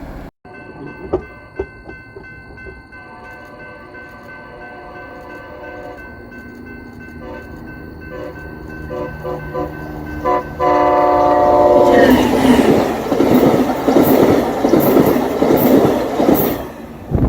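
Siemens test train for VIA Rail sounding its horn, a short chord of several tones about eleven seconds in. The train then passes close by with loud wheel and rail noise for the last five seconds.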